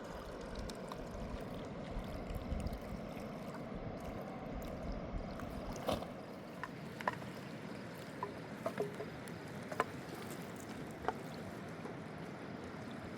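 Steady rush of river water around a small boat. From about six seconds in, several light sharp clicks or drips come a second or so apart.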